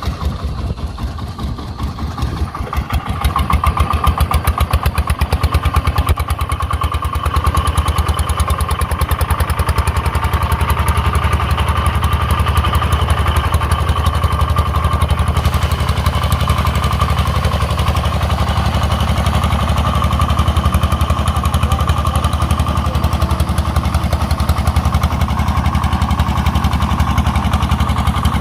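Single-cylinder diesel engine of a công nông farm truck chugging with a fast, even beat. It grows louder about three seconds in, then runs steadily.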